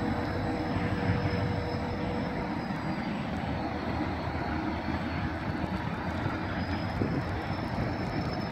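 Train running along the track with a steady low rumble of engine and wheels, with a faint high tone wavering slowly up and down above it.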